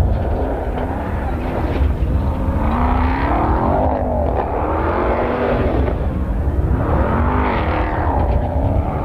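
Ram 1500 TRX's supercharged 6.2-litre V8 engine running, its pitch rising and falling as it revs up and back down, most strongly about three seconds in and again about seven seconds in.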